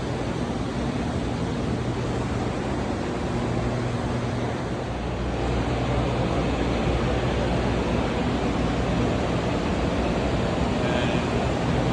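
Steady drone of factory machinery and ventilation with a low hum, getting a little louder about five seconds in.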